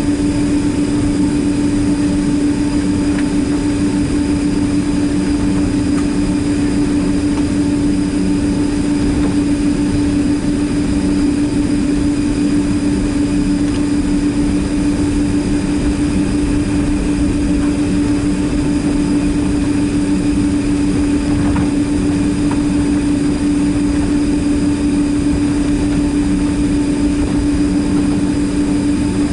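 Cabin noise inside a Boeing 767-300ER with its jet engines running steadily: a constant hum with a strong low drone over a rushing background.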